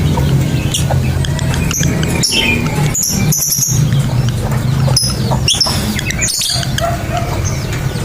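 Lovebirds chirping: scattered short, shrill chirps and squeaks over a steady low hum.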